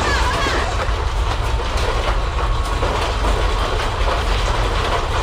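Loud, steady low rumble with dense continuous rattling and clattering over it, and a few brief squeaks in the first second.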